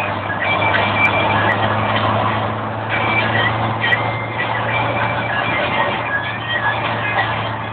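Lada 2103's 1.5-litre four-cylinder engine running at a steady speed, heard from inside the cabin with road noise, while short high squeaks and chirps come and go throughout.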